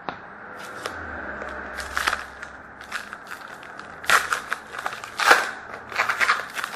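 Trading-card pack wrapper crinkling and crackling as it is handled and torn open, with irregular sharp crackles, the loudest about four and five seconds in.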